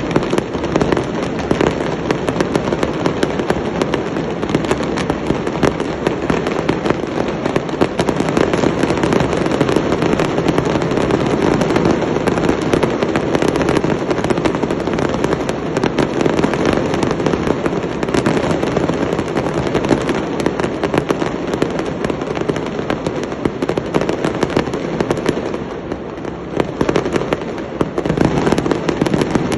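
Fireworks going off in a dense, continuous barrage, many rapid bangs and crackles running together, easing briefly near the end before picking up again.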